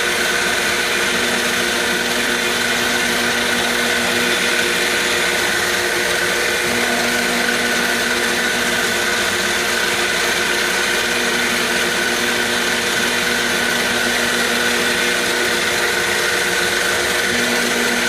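CNC machine running a roughing cut: the spindle motor and cutter make a steady mechanical noise with several held tones, unchanging in level.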